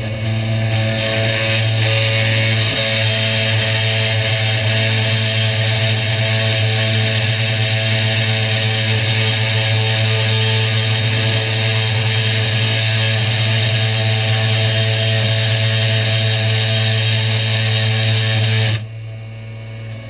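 CNC 3018 router's spindle milling into Finnpappe board: a loud, steady cutting noise over the spindle motor's hum. It swells as the cut begins about a second in and stops abruptly near the end.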